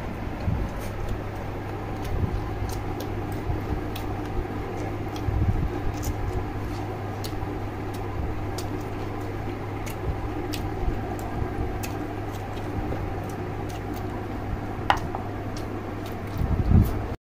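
Close-up eating sounds: wet chewing and lip-smacking clicks as a man eats boiled chicken and rice with his hands, over a steady low hum, with a few louder knocks near the end.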